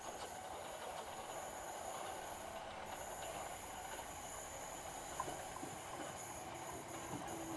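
Electric multiple-unit train running, a steady rumble with a high hiss and a single small click about five seconds in.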